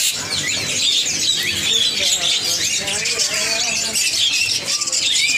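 A dense chorus of many small caged birds chirping and squawking at once, short rapid high-pitched calls overlapping without a break.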